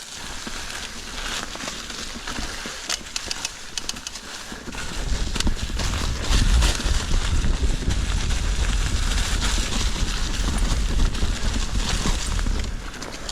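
Mountain bike rolling over rough trail, with scattered clicks and rattles. About five seconds in a heavy low rumble of wind and trail vibration on the microphone sets in, as the bike picks up speed.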